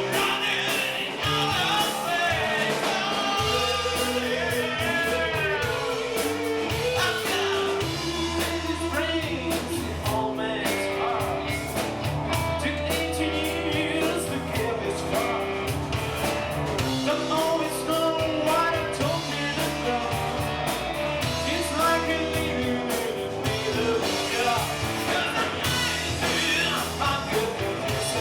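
Rock song with a singer, guitar and steady bass line.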